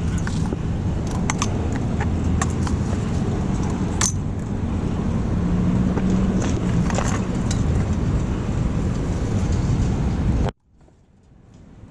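Steady traffic rumble with scattered sharp clicks and light rattles, the loudest click about four seconds in. The sound cuts off abruptly near the end and then slowly fades back in.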